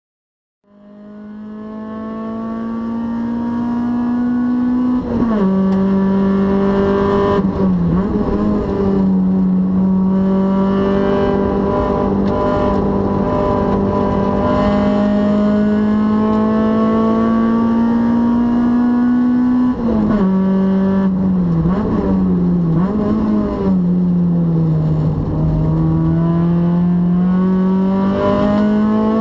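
Honda Prelude's H22A four-cylinder engine heard from inside the cabin, working hard on a track lap: long pulls with the pitch climbing slowly, a sharp drop about five seconds in as it shifts up, quick up-and-down revs on the downshifts around eight seconds and again around twenty to twenty-three seconds, then pulling again near the end. The sound fades in over the first few seconds.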